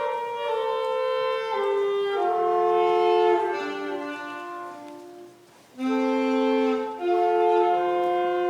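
Wind instruments playing a slow melody in two or more parts in harmony, held notes changing every second or so; the phrase ends about five seconds in and a new one starts just before six seconds.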